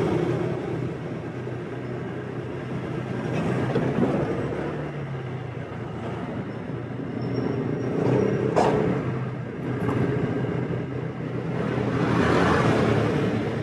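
Motorbike ride through city traffic: a steady low engine drone under road and wind noise, with passing vehicles swelling up and fading about every four seconds, and one short sharp knock about two-thirds of the way through.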